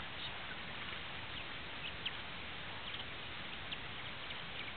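Scattered short, high bird chirps over a steady hiss.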